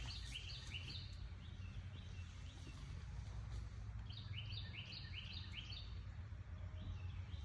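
A songbird sings runs of short, quick chirps, repeated several times a second: one run at the start and another from about four to six seconds in. Underneath is a steady low outdoor rumble.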